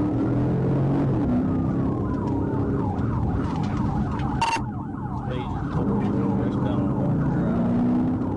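Police car siren during a pursuit: a slow wail that switches to a rapid yelp about a third of the way in, over a steadily running vehicle engine. A single sharp click comes about four and a half seconds in.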